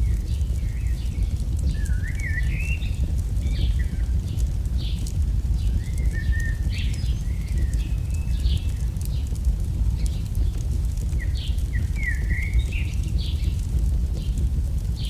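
AI-generated campfire ambience: a steady low rumble of burning fire with faint scattered crackles, and small birds chirping and warbling over it in short phrases, three times over.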